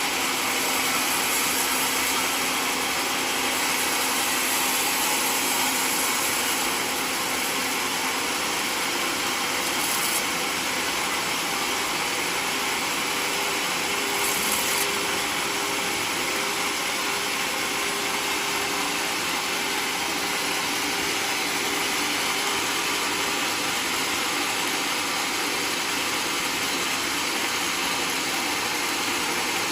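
Portable sawmill running steadily, its engine and saw making a continuous machine noise with a strong high hiss.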